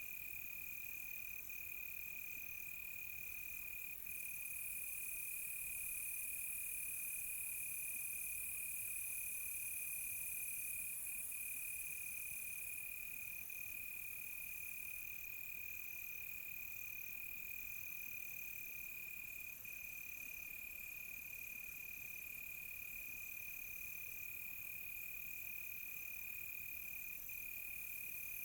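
Night chorus of crickets: one steady, unbroken high trill, with a higher trill that starts and stops in short stretches and a hiss of further insects above it that grows louder about four seconds in and eases back several seconds later.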